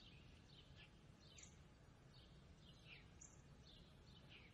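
Near silence with faint room tone, broken by a few faint, short bird chirps now and then.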